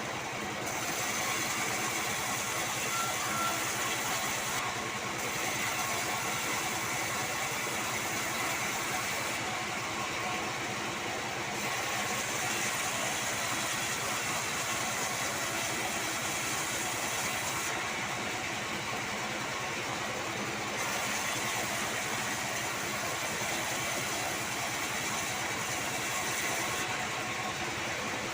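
Manual bandsaw-28 band sawmill running steadily while its blade saws sengon wood. A high hiss from the cut comes and goes in four stretches of several seconds each, with short breaks between.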